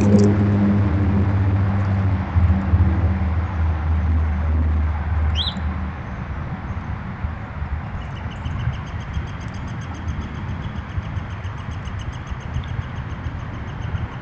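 A low, steady motor hum fades out over the first half. A bird gives one short rising chirp in the middle, then a long, rapid, even trill on one pitch from about two-thirds of the way in.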